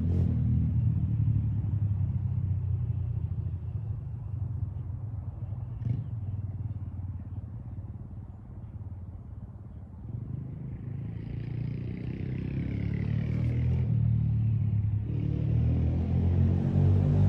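Motorcycle engine running, getting quieter toward the middle and then growing louder again from about ten seconds in.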